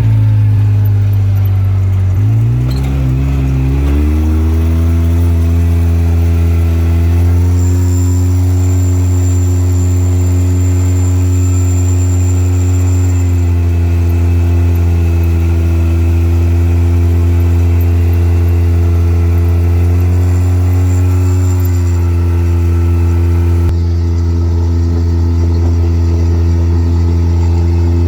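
Off-road vehicle engine running steadily under way. Its pitch drops briefly about two seconds in and climbs back, as at a gear change or a lift off the throttle, then holds nearly level, with a faint high whine in the middle.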